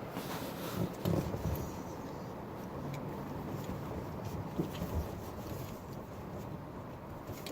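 Automatic touchless car wash at work, heard from inside the car: a steady noise of spray and wash machinery on the car's body, with a faint low hum and a few light knocks.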